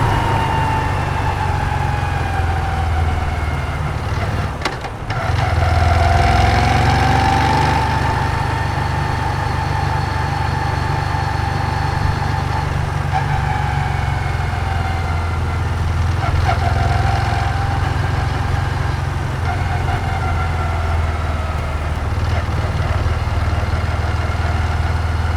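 Moto Guzzi V7's air-cooled transverse V-twin running on the move. Its note drops away briefly about five seconds in, then picks up again and runs steadily.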